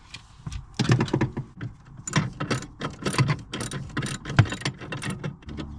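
A hand tool working a small screw loose, with a quick irregular run of clicks and scrapes of metal and plastic that starts about a second in.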